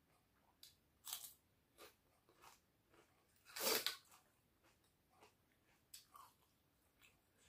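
Person eating close to the microphone: quiet chewing with scattered short clicks, and one louder, longer noisy sound a little under four seconds in.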